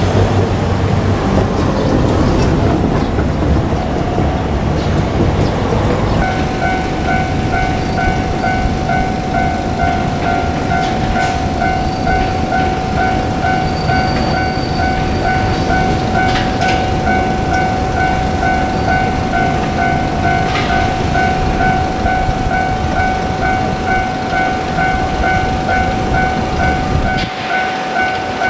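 Rumble of a JR Kyushu 817 series electric train running on the line. About six seconds in, a Japanese level-crossing warning bell starts ringing with a rapid, even, repeated electronic ding and keeps ringing throughout.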